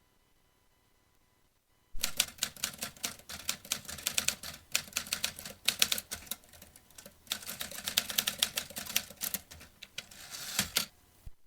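Vintage typewriter being typed on: after about two seconds of quiet, a fast, dense run of key strikes, many per second, with a brief lull midway, stopping just before the end.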